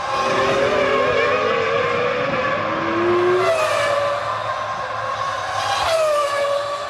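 Formula One V10 racing engines running at high revs, the pitch climbing at first and then dropping sharply twice, about halfway through and near the end.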